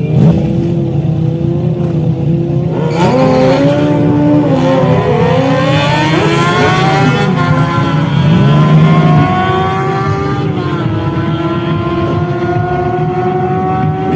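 Several motorcycle engines running and revving together. From about three seconds in their pitch climbs and falls in overlapping sweeps as they accelerate, settling into a steadier, slowly rising drone near the end.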